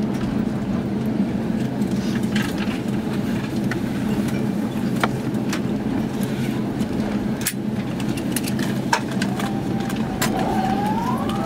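Steady cabin rumble of an Airbus A350-900 airliner during its landing, with a few light clicks and rattles. A whine rises in pitch near the end and then holds steady.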